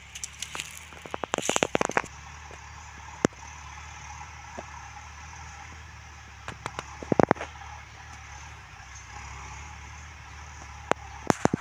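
Scattered sharp clicks and crackles over a steady outdoor background hiss and low rumble, with a dense cluster in the first two seconds and another about seven seconds in.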